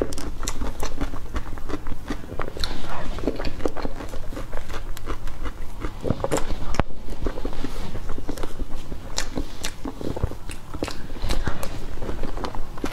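Close-miked mouth sounds of eating soft whipped-cream cake: wet chewing and lip smacking, with many short sharp clicks.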